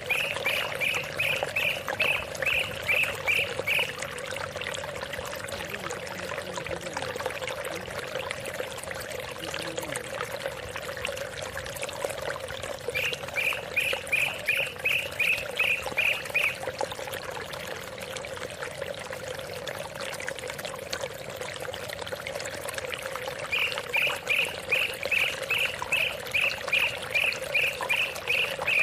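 Steady running water, like a small stream. Three runs of a quick repeated call, about three notes a second, come over it at the start, in the middle and near the end.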